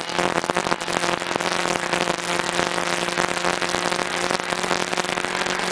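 Peugeot 106 rally car's engine running at steady, unchanging revs, heard from inside the cabin, with a dense crackling noise over it. The car is held at a constant pace through a speed-limited slow zone.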